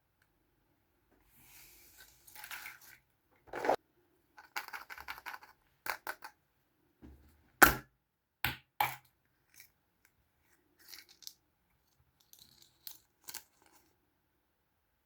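Small plastic Kinder Surprise toys and their packaging being handled: soft rustles and a string of sharp clicks and taps, the loudest about halfway through.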